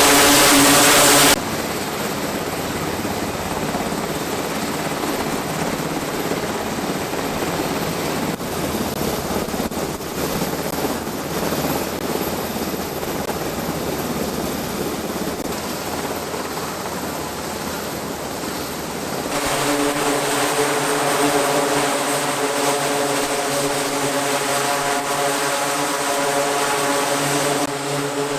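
Aircraft engine noise in cut-together clips: a steady rushing noise through most of it, then after a cut about two-thirds of the way in, a louder droning engine hum at a steady pitch.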